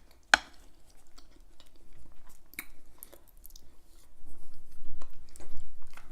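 Close-miked chewing and mouth sounds of someone eating, with a sharp click about half a second in; the chewing gets louder and more rhythmic in the last couple of seconds.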